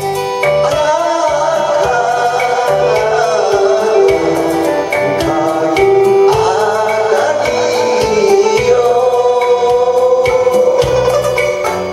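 An enka song: a solo voice sings a melody with vibrato over an instrumental accompaniment of bass and steady percussion. The voice stops about three-quarters of the way through while the accompaniment carries on.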